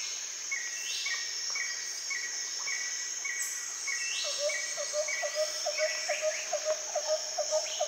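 Insects and birds: a steady high insect trill, with short calls repeated about twice a second and a few rising chirps.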